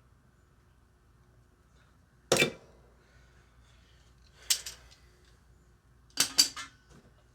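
Metal hand tools clanking against metal: one sharp clank about two seconds in, another near the middle, and a quick double clink near the end, each with a short ring.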